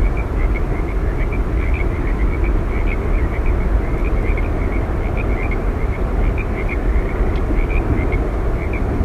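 Steady roar of Yosemite Falls: an unbroken rushing noise, heaviest in the low end. Short high chirps repeat over it, several a second.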